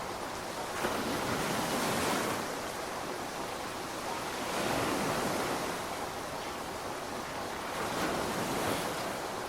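Steady rain, a dense even hiss that swells and eases about every three to four seconds.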